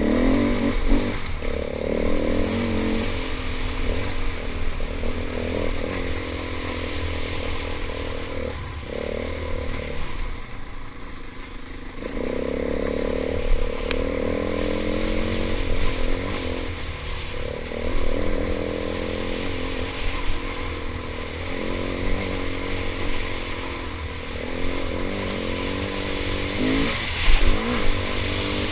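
KTM 500 EXC single-cylinder four-stroke dirt bike engine running under way, its pitch rising and falling with the throttle. It eases off for a couple of seconds about ten seconds in, then picks up again.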